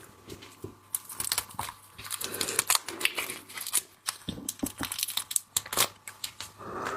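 Close crinkling and crackling with many short, sharp cracks, from seafood being handled and pulled apart by hand.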